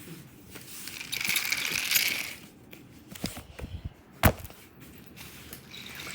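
Toy trains and track pieces being handled: a rattling, jingling clatter, then scattered clicks and one sharp click about four seconds in.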